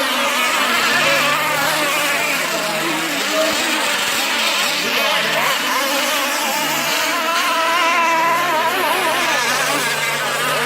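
Several petrol-engined radio-controlled racing boats running together, their high-pitched engine whines wavering up and down in pitch as they throttle and turn. A steady low hum sits under them for a couple of seconds early and again from about eight seconds in.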